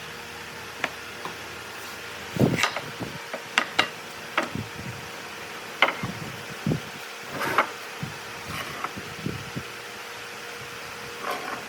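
Scattered clicks and knocks of objects being handled, a dozen or so at uneven gaps, over a steady low hum.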